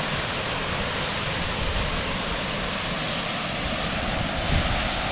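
Steady rushing of a tall waterfall, with low rumbles of wind on the microphone.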